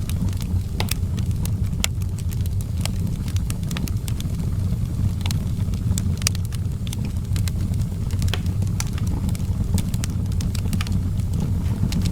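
Outdoor wood fire crackling, with irregular sharp pops and snaps several times a second over a steady low rumble.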